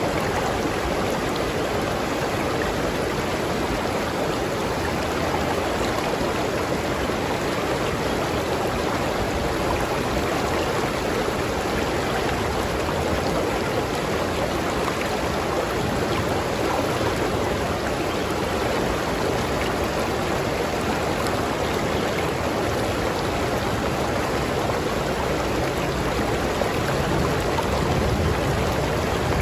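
Tropical river stream flowing steadily, an even rush of water that gets a little louder near the end.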